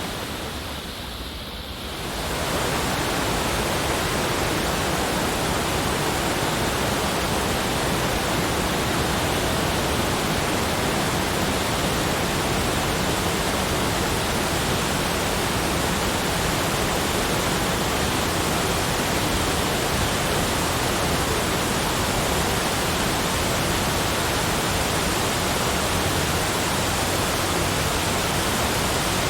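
Steady, even rushing noise spread from deep to high pitches, with no distinct events. It dips slightly in level during the first two seconds, then holds constant.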